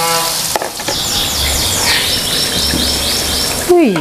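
Tofu strips frying in hot oil in a wok, a steady sizzle. In the middle a bird chirps a quick run of about ten short falling notes.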